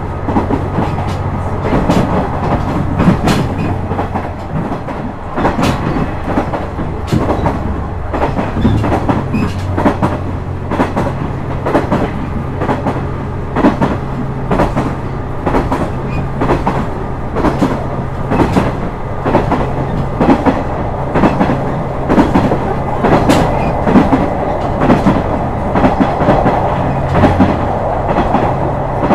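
KiHa 126 series diesel railcar running at speed: a steady low engine drone under repeated clicks of the wheels crossing rail joints.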